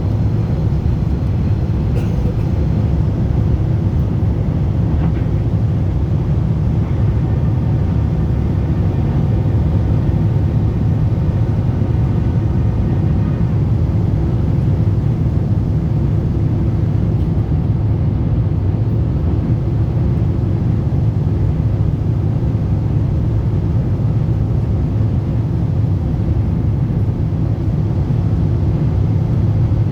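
Boeing 747-8 airliner in flight, heard from inside the cabin: a steady, loud low rumble of engines and airflow.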